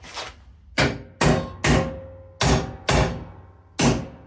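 Heavy hammer blows on steel, about seven strikes at uneven intervals, each ringing briefly, knocking out a tack-welded brace from the Austin A35's body shell.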